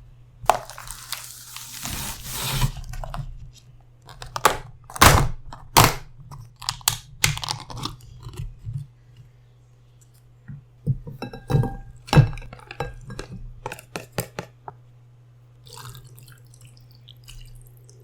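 Close-miked eating of asam laksa noodle soup: a slurp-like rush about half a second in, then bouts of chewing, mouth smacks and utensil clicks against the bowl, over a steady low hum.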